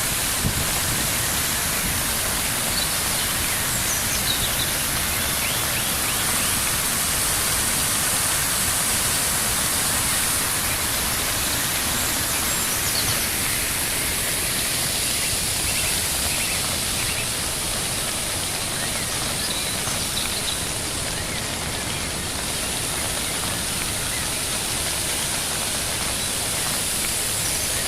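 Floodwater rushing steadily down a rambla, a normally dry seasonal riverbed that only runs after two or three days of heavy rain.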